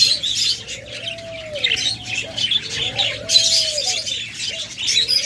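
Caged budgerigars chattering with many quick high chirps, over repeated low dove coos: each coo is a rising-then-falling note about a second long, coming about every two seconds.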